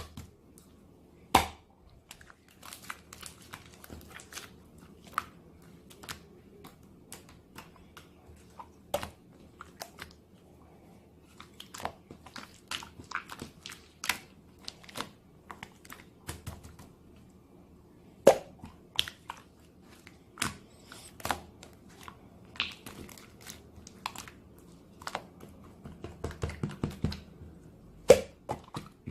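Hands playing with slime: irregular sticky clicks and pops as it is pressed, stretched and folded, coming thicker and faster near the end.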